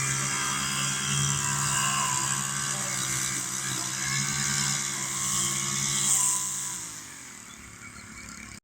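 Small gasoline engine of lawn-cutting equipment running steadily at speed, then slowing down, its pitch falling from about seven seconds in, before the sound cuts off suddenly.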